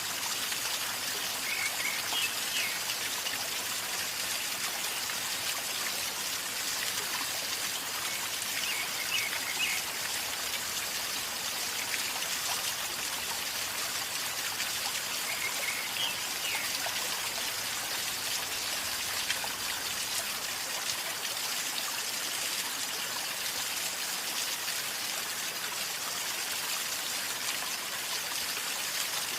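River water flowing and gurgling steadily over stones. A few faint short high chirps sound over it.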